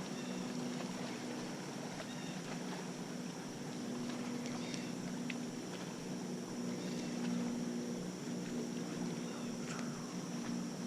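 A small motor hums steadily, with short bird chirps now and then.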